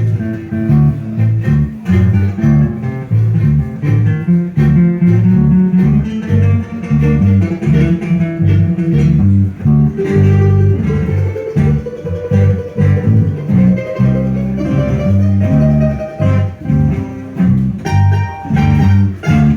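A live acoustic string band playing an instrumental break in a tango: plucked guitar over a rhythmic bass line, with a sustained melody line coming in about halfway through.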